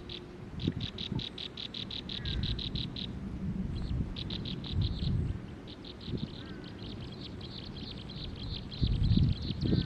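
A bird calling in bouts of rapid, even, high-pitched trilled chirps, about eight a second, with a few faint falling notes between. Low rumbling noise underneath swells near the end.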